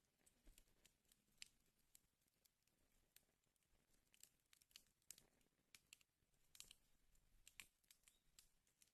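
Faint wood fire crackling in a fireplace, with irregular sharp pops and snaps. A few louder ones come about a second and a half in and again between five and eight seconds.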